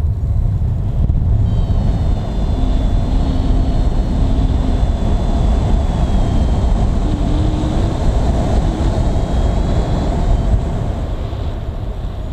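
Strong wind rushing steadily over the microphone in flight, with a faint high whine through the middle.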